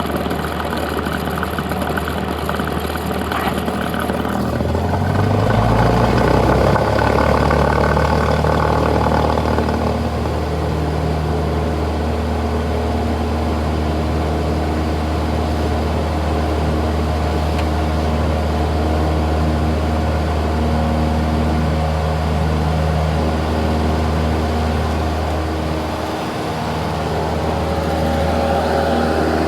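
Cessna 172's piston engine and propeller droning steadily, heard from inside the cabin. The engine note steps up in pitch and gets louder about five seconds in, then settles, with a brief dip near the end.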